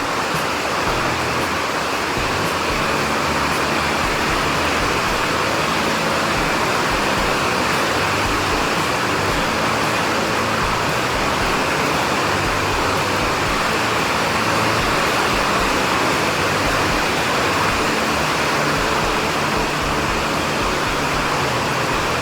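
Steady heavy rain, a dense, even hiss with no thunderclaps, and low tones shifting slowly underneath.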